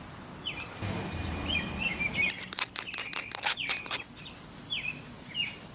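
Songbirds chirping repeatedly in short falling notes. Between about two and four seconds in, a quick run of sharp clicks and knocks, louder than the birds, from hand tools and metal parts being handled.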